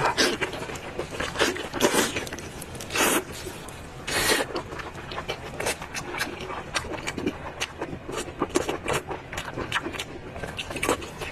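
Close-miked chewing and slurping of hot lamb tripe: a quick run of wet smacking mouth sounds, with two longer, louder slurps or breaths about three and four seconds in.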